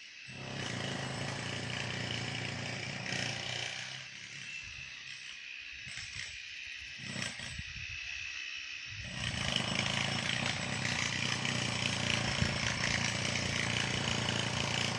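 A small engine running, quieter for a few seconds midway and then louder again.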